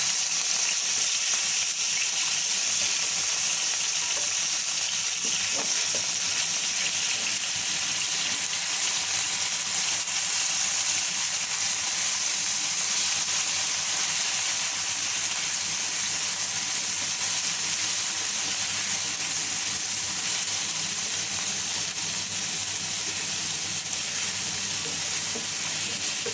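Garlic-ginger paste steadily sizzling in hot oil in a pan as it is sautéed.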